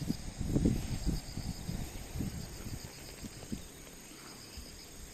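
Insects chirping in a steady, rapid pulsed pattern, with low rustling and bumps that die away over the first few seconds.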